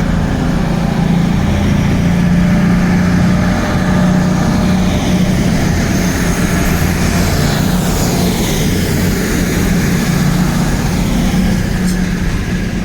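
Diesel train engine running with a loud, steady low drone, which cuts off suddenly at the very end.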